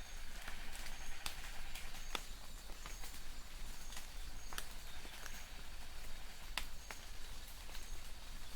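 Light rain in a forest: a soft steady patter with irregular sharp drips striking leaves, and a faint, high, short chirp from a distant bird repeating about once a second.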